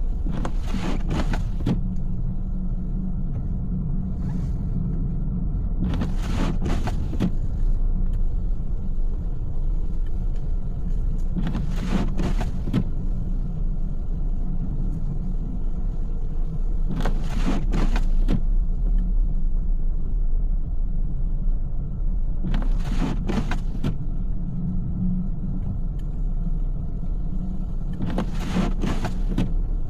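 Car driving in snow, heard from inside the cabin: a steady low rumble of engine and tyres. A short swishing sweep repeats about every five and a half seconds, six times, typical of windshield wipers on an intermittent setting clearing snow.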